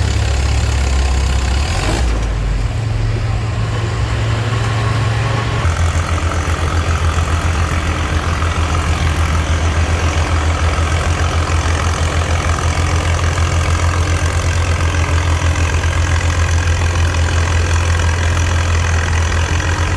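Antique farm tractor engine running loudly and steadily. Its sound shifts about two seconds in and again about six seconds in, then settles into an even, rapid beat.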